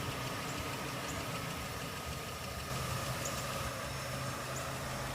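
A steady low engine hum, like a vehicle idling, with a faint steady whine above it.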